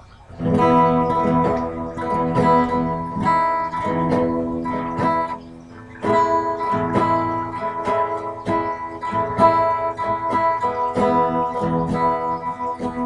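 Acoustic guitar being strummed, starting about half a second in, with a short pause near the middle before the strumming picks up again.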